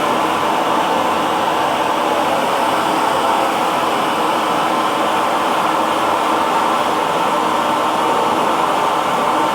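Electric hair dryer running steadily, a constant whooshing blow with a faint hum under it and no change in speed.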